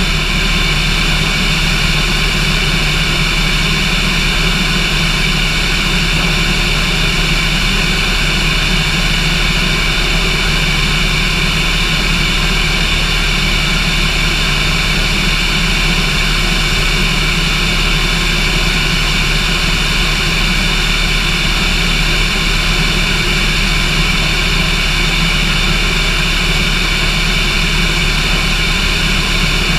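Cessna aircraft engine and propeller running steadily in flight, an even, unchanging drone at one constant level.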